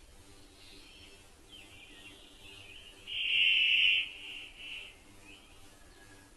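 Birds chirping, with faint short calls throughout and one loud call about three seconds in that lasts about a second, followed by two shorter calls.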